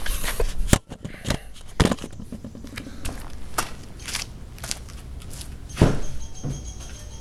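Handling noises of someone moving about and getting ready: a string of separate clicks and knocks, with a heavier thump about six seconds in, followed by a faint steady high tone.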